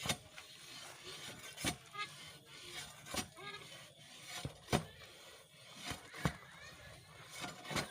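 Hand-operated well-drilling auger working into hard, watered soil: scraping and grinding, with a sharp knock about every second and a half.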